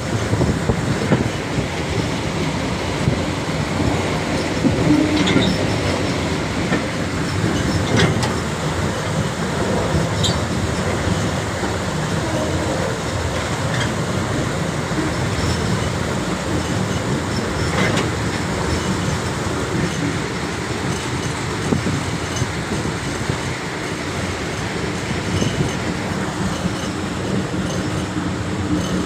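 Train running along the rails, a steady rumble and clatter with occasional sharp clicks.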